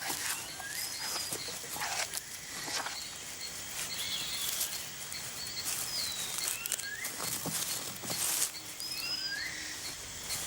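Rainforest ambience: a bird gives short whistled chirps that rise or fall, repeating every second or two over a steady background hiss, with brief dry crackling rustles now and then.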